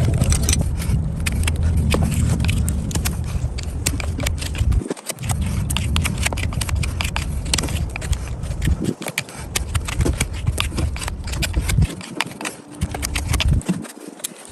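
Hoof trimming: a dense run of sharp clicks and scrapes from tools cutting the hoof, over a low rumble that cuts out abruptly several times.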